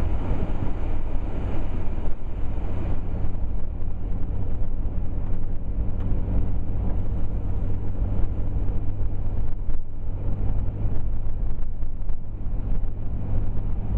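Steady low rumble of a four-wheel-drive vehicle driving, with engine and road noise heard from inside the cabin.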